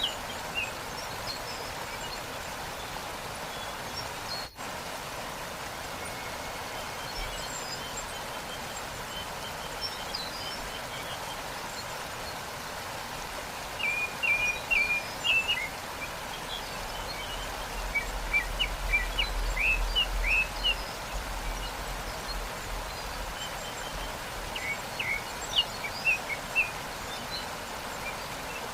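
Steady rush of falling water from a waterfall, with small birds chirping over it in quick short calls, busiest through the middle and again near the end.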